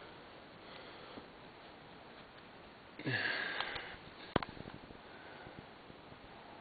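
A short sniff about three seconds in, over a faint steady hiss, followed about a second later by a sharp click and a few light ticks.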